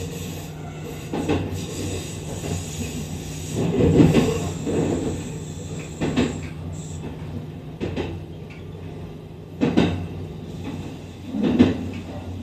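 Kintetsu 23000 series Ise-Shima Liner electric train running, heard from inside the front car: a steady low hum with a series of irregular heavy knocks as the wheels run over rail joints and points. The loudest knocks come about four seconds in and near the end.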